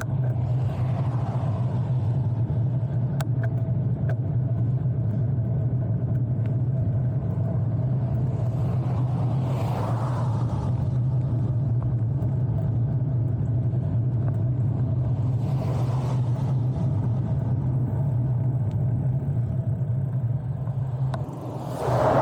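Cars passing on a road, one after another: four swelling whooshes several seconds apart, the last the loudest, over a steady low rumble.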